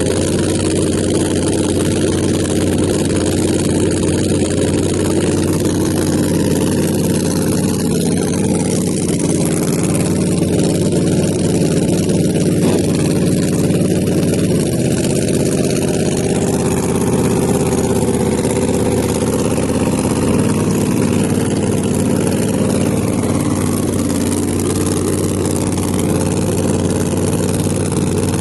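A drag car's engine idling steadily, its pitch shifting slightly a little past halfway.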